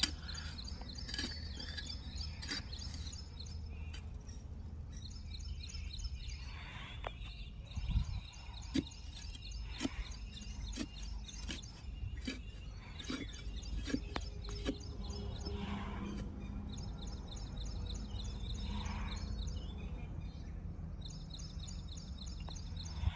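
Small birds chirping repeatedly over a steady low rumble, with a few dull thuds of a spade digging into soil.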